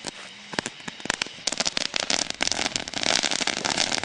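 Hundreds of bottle rockets going off from a homemade mass launcher. Scattered pops at first, then from about a second and a half in a dense, continuous crackling and hissing as the rockets launch and burst.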